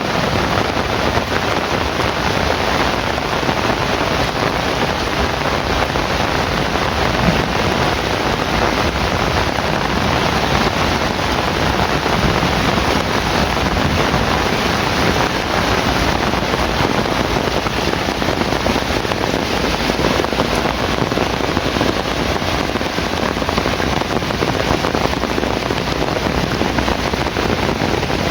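Heavy rain falling steadily, a dense, even hiss of drops with no break.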